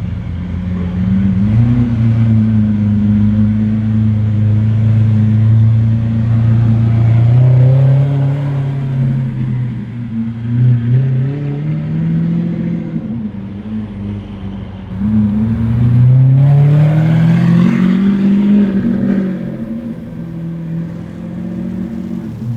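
Lamborghini Aventador SVJ's V12 engine through a Deutsch Tech aftermarket exhaust, running at low revs and revved several times, the pitch climbing and dropping back, with the longest climb about two-thirds of the way through.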